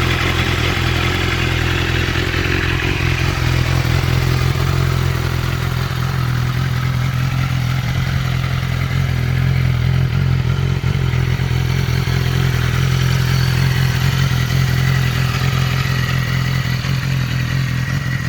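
Motorcycle engine running steadily at an even speed, without revving.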